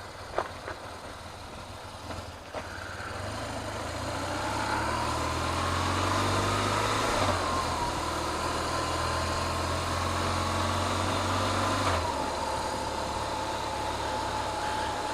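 Motorcycle engine pulling away and riding slowly: the note rises over a few seconds, dips briefly about halfway through as if on a gear change, then holds steady and eases off about three seconds before the end.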